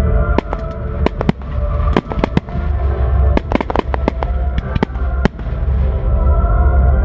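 Fireworks bursting, many sharp bangs at an irregular pace, some in quick clusters, over loud music with a heavy bass accompanying the display.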